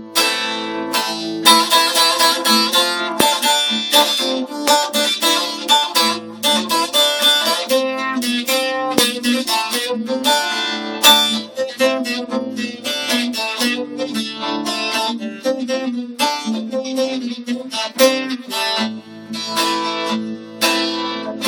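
Instrumental break of a Turkish folk song played on a plucked string instrument: a quick run of picked notes between sung verses.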